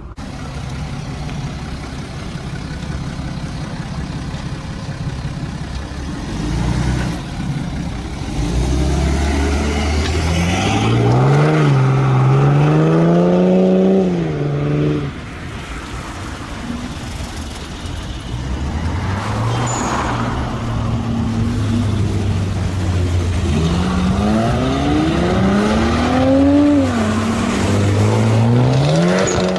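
Car engine with a loud exhaust accelerating hard: the engine note climbs steadily, then cuts off sharply about halfway through. It settles back to a steady drone, then climbs again, with a brief dip and renewed climb like a gear change near the end.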